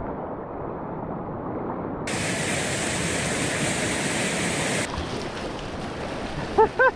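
Rushing whitewater of a tidal rapid: a steady, noisy wash of water that turns suddenly brighter and hissier about two seconds in and drops back a little near five seconds. A brief voice calls out near the end.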